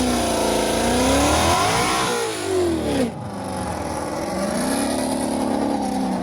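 Vehicle engine revving in a rise and fall that cuts off sharply about three seconds in, followed by a second, softer rev near the end.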